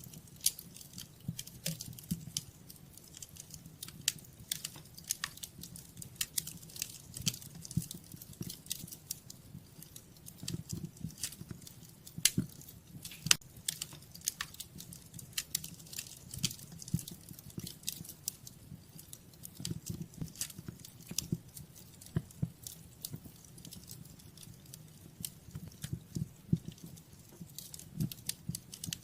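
Wood fire crackling in a fireplace: irregular sharp snaps over a low, steady rumble of the flames, with a couple of louder pops about halfway through.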